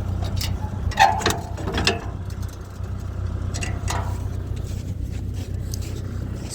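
Tractor engine running steadily, with a few short sharp rattles about one to two seconds in and once more near four seconds.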